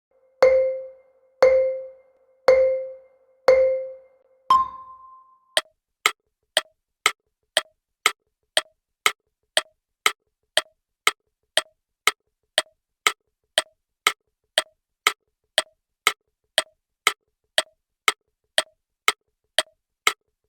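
Quiz countdown timer sound effect. Four short low electronic beeps a second apart, then one higher beep as the start signal, then a steady clock-like tick about twice a second while the time runs.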